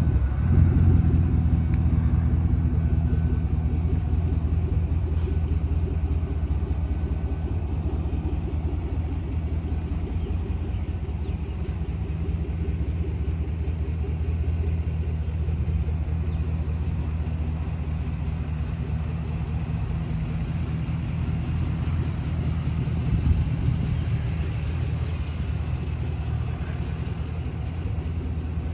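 Land Rover Defender's engine idling steadily at a low, even pitch.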